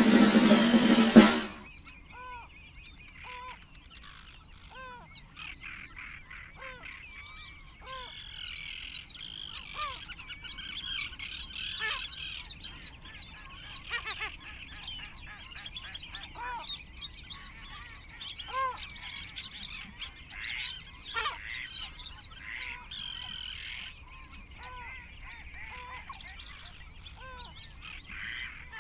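Music ends about a second and a half in, giving way to birds calling: a short arched call repeated about once a second over a busy chorus of higher chirps from other birds.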